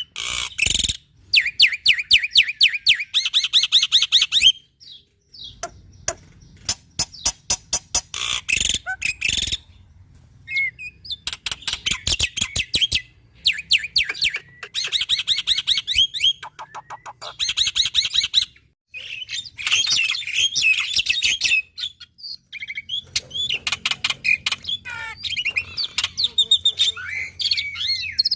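Black-winged starling (jalak putih) singing vigorously: phrases of fast, rattling click trains alternate with harsh chattering and whistled notes, with short pauses between phrases.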